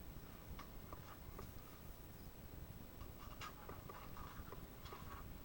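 Faint scattered clicks and a short rustle from a large plastic toy jet and its packaging being handled.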